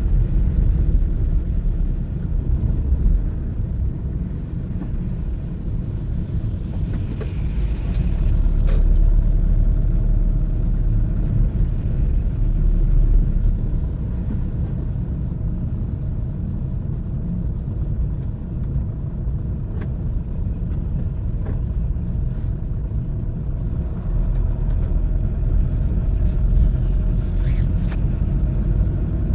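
A car being driven along a road: a steady low rumble of engine and tyres, with a few faint clicks.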